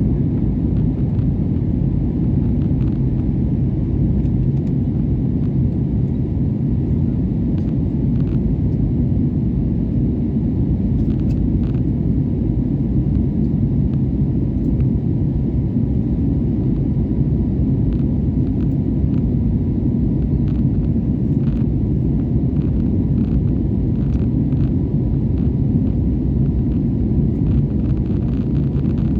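Airliner jet engines and airflow heard as a steady low rumble from inside the cabin during take-off and climb, with faint light rattles over it.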